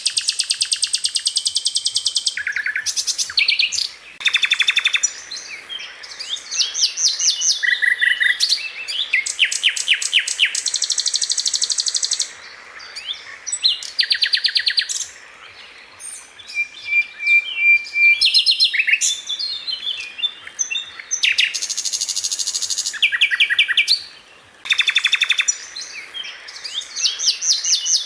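Sikatan londo flycatcher singing: fast, tightly packed trills and rapid strings of high-pitched notes in bursts of a second or two, with short pauses between phrases.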